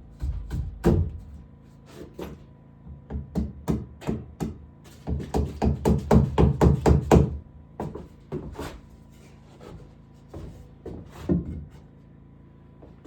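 Hammer blows on wood, scattered knocks with a quick run of about ten strikes about five seconds in.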